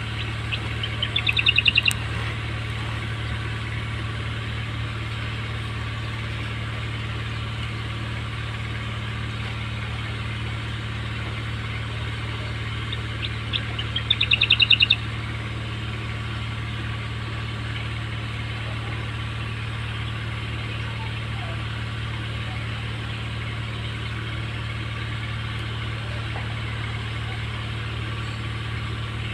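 Two short bird calls over a steady low hum. Each call is a quick run of high chirps lasting about a second, one near the start and one about halfway through.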